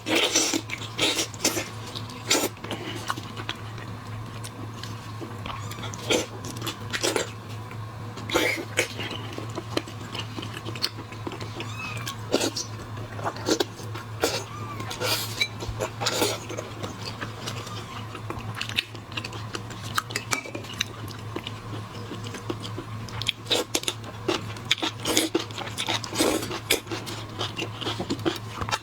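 Close-up eating of shellfish: irregular wet clicks, cracks and smacks of chewing and sucking on shrimp and lobster, over a steady low hum.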